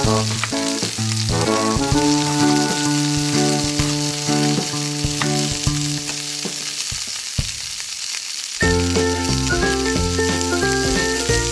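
Steady frying-pan sizzle, a sound effect for the plastic toy pan, over cheerful background music. The music fades out briefly about seven seconds in and comes back with a different tune.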